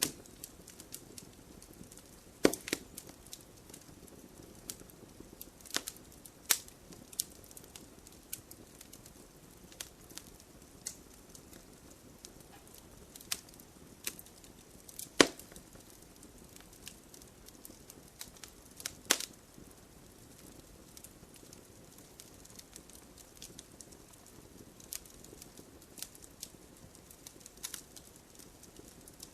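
Campfire burning: wood crackling and popping over a soft low rustle of flames, with a few sharp loud pops among many small ones.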